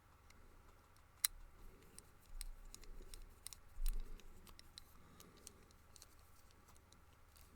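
Faint, scattered small metal clicks and light scraping as a screw is fitted into a brass padlock body, with one sharper click about a second in.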